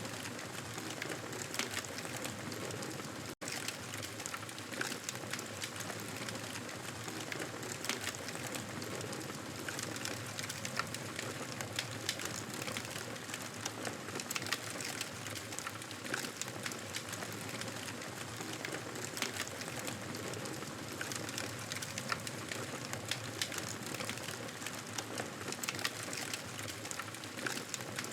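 Fireplace crackling: a steady hiss dotted with many small crackles and a few sharper pops. The sound cuts out for an instant a little over three seconds in.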